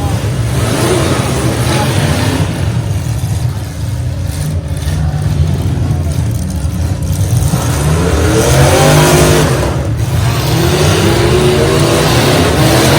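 Demolition derby truck engines running hard and revving, the pitch rising and falling in surges about eight and eleven seconds in.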